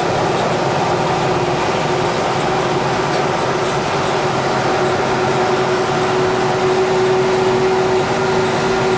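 Steady jet-aircraft turbine noise on an airport ramp: a continuous drone with a constant hum and a faint high whine, unchanging throughout.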